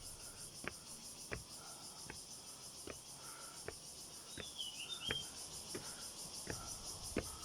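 Footsteps climbing steps, a little more than one step a second, over a steady high buzz of insects. A bird chirps briefly a little past halfway.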